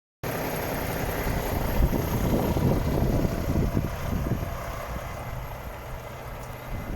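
Volvo FH 460 truck's six-cylinder diesel engine idling steadily, a little louder in the first few seconds and then settling quieter.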